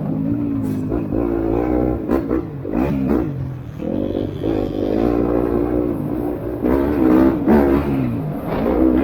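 Motocross bike engines revving hard. The pitch climbs and drops again and again as the riders open and close the throttle and shift through the gears.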